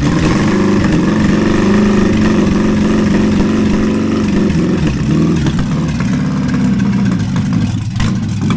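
Toyota 4Y four-cylinder petrol engine running loud and steady on a test stand, freshly started, its speed wavering slightly.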